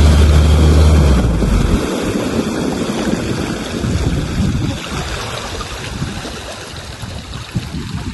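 All-terrain vehicle's engine running with a steady low drone that cuts out about a second in. Water then sloshes and splashes around the vehicle as it is washed off in the water, with wind on the microphone.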